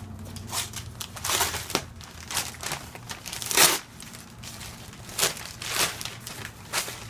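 Paper packaging being handled and unwrapped: irregular crinkling and tearing rustles, the loudest about three and a half seconds in.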